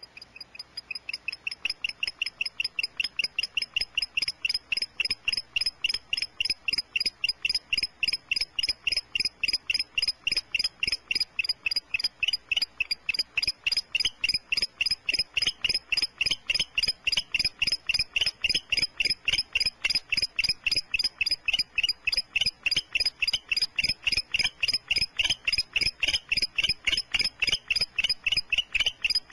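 An animal's chirping call, short pulses repeated evenly about three to four times a second without a break, fading in over the first few seconds.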